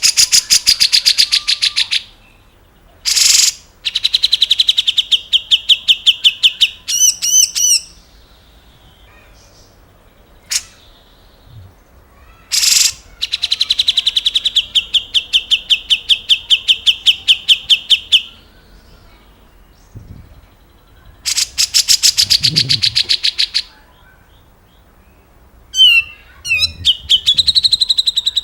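Grey-cheeked bulbul (cucak jenggot) singing in long, rapid runs of repeated high notes, each run lasting a few seconds and broken by short pauses, with a few sharp single notes and a warbled phrase near the end.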